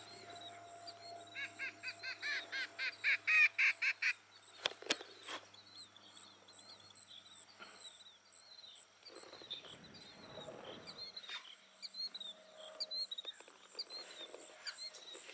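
Outdoor bird calls: a quick run of about ten loud, evenly spaced calls, roughly three a second, for the first few seconds, then repeated short high chirps for the rest of the time.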